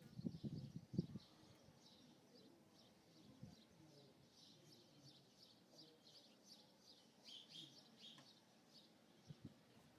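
Faint, repeated chirping of small birds, with a few soft knocks in the first second.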